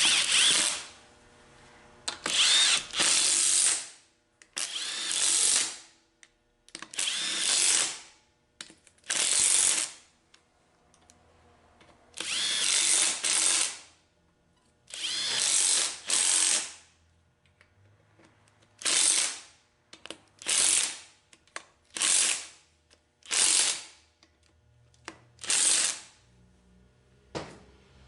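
Power tool running in the tail housing bolts on a rebuilt Ford 4R70W-family automatic transmission: a string of whirring runs of one to two seconds each, turning into short bursts in the second half.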